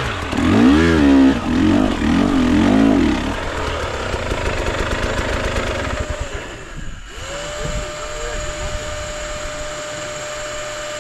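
Dirt bike engine revving up and down hard for the first few seconds, then running lower and rougher. Near the end a steady, even tone takes over.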